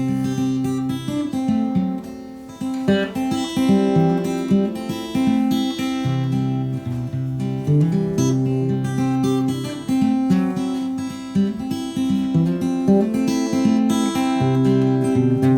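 Acoustic guitar strummed in a steady rhythm, chords changing every second or so: the instrumental opening of the song.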